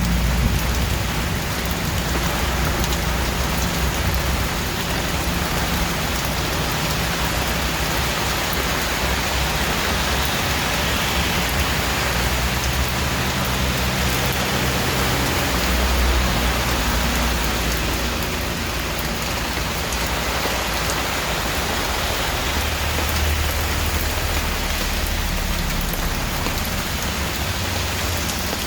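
Steady heavy rain falling on a surface, with a low rumble underneath that comes and goes.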